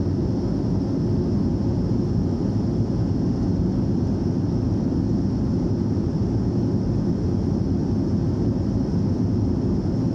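Cabin noise of a BAe 146-200 airliner in flight, its four Lycoming ALF502 turbofans and the airflow giving a steady low rumble with a faint high whine above it.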